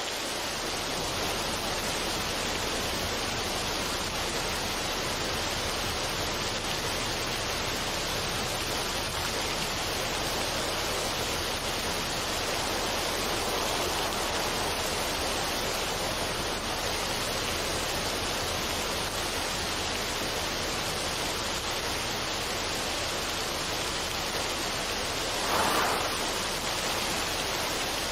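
Steady, even rushing noise with no music in it, with one brief louder swell near the end.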